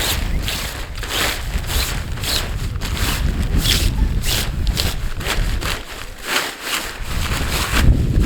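Wind buffeting the microphone with a low rumble, over a run of short rustling strokes at about two a second that dip briefly near the middle.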